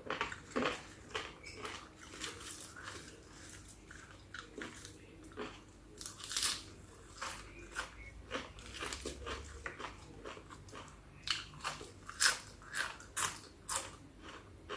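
Close-up eating sounds of spicy chicken feet salad: irregular crunchy bites and wet chewing, many sharp crackles a second, louder in clusters about six seconds and twelve seconds in.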